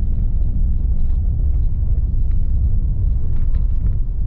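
Inside a low-slung car driving on a dirt road with the windows shut: a steady, loud low rumble of tyres and engine, with light scattered ticks over it.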